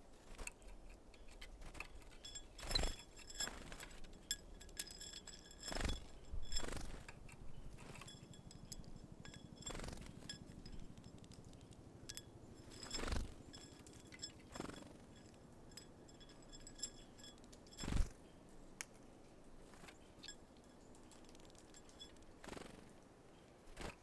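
Irregular taps, knocks and clinks of small birds at a seed feeder, landing and pecking at sunflower seeds. The loudest knocks come about 3, 6, 13 and 18 seconds in.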